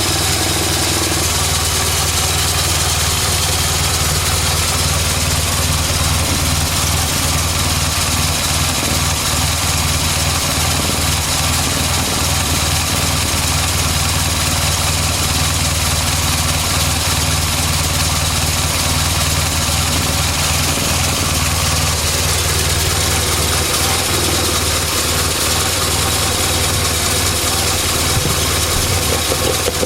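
1970 Morris Minor's A-series four-cylinder engine idling steadily with the choke pushed fully in; the engine has been rebored and fitted with an unleaded head.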